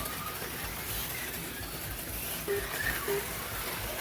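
HO-scale slot cars running on the track: a steady high hiss and buzz of the small motors and pickup shoes. Two short low tones sound in the second half.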